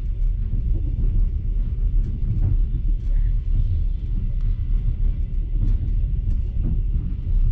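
Steady low rumble of a moving passenger train carriage, its wheels running on the rails, heard from inside the compartment, with a few faint clicks.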